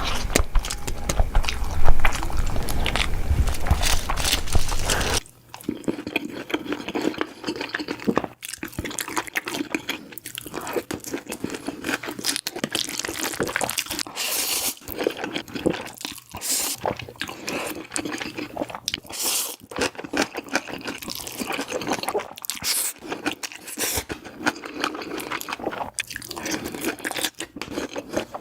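Close-miked mukbang eating sounds: crunchy bites and wet chewing. The first five seconds are louder and denser; then the sound changes abruptly to a run of crisper, separate crunches.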